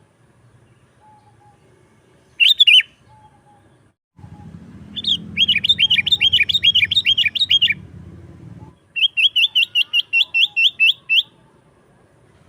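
Sooty-headed bulbul calling: a short burst of notes about two seconds in, then two fast runs of repeated chirps, each lasting a couple of seconds.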